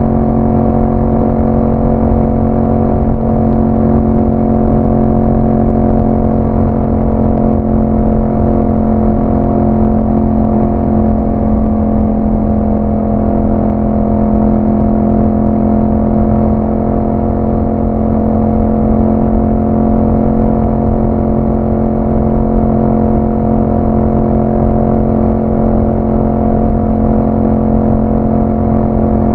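Yamaha MT-07's 689 cc parallel-twin engine running through an Akrapovic exhaust with dB killers, holding a steady engine speed while the bike is ridden.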